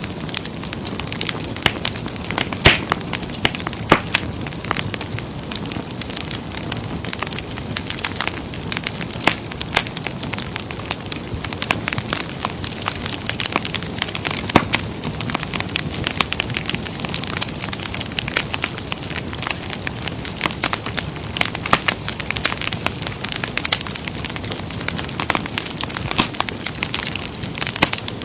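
Wood fire burning in a fireplace: a steady low rumble with constant irregular crackling and a few louder pops.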